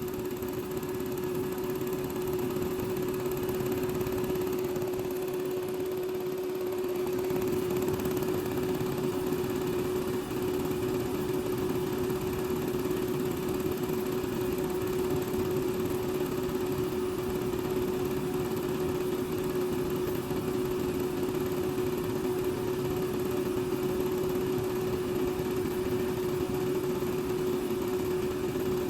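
A small electric motor running steadily, a constant hum with one steady low tone.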